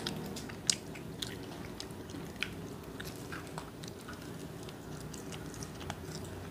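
Chewing and biting into cheese-powder-seasoned fried chicken: irregular small crisp clicks and mouth noises over a low steady room hum.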